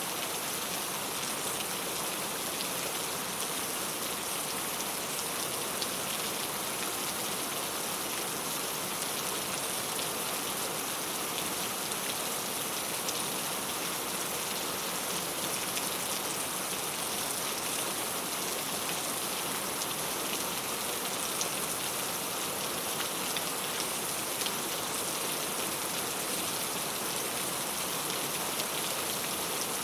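Steady rain pattering on a clay tile roof, a dense even hiss of drops with scattered sharper ticks.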